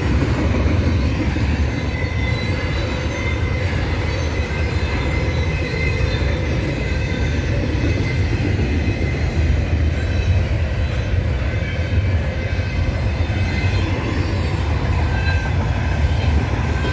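Canadian Pacific freight train of auto-rack car carriers rolling past: a steady rumble of wheels on rail, with a faint high-pitched wheel squeal over it.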